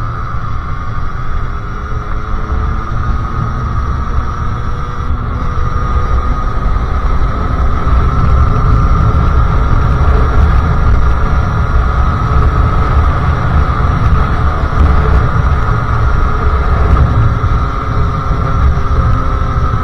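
Sherco SM-R 50cc two-stroke engine with a KRM exhaust pulling at steady, fairly high revs while riding, its pitch drifting slowly upward and getting louder about eight seconds in, over a low rumble of wind on the microphone.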